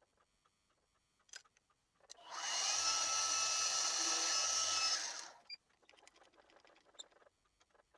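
Milling machine spindle starting about two seconds in with a rising whine, running steadily for about three seconds while drilling a hole, then stopping. Light clicks and taps before and after.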